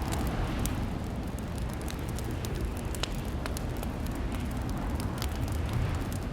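Fireplace fire crackling: a steady low rumble of burning with scattered, irregular sharp pops.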